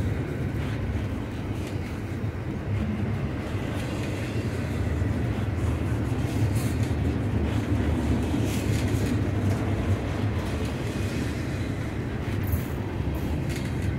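Intermodal freight train's container-laden well cars rolling past close by: a steady low rumble of steel wheels on rail, with a few brief sharp clicks.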